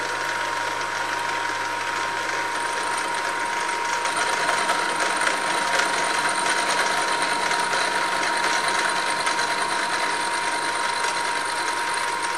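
Hare and Forbes HM48 milling machine running with the end mill spinning, a steady whine over a mechanical hum, with light irregular ticking from about four seconds in.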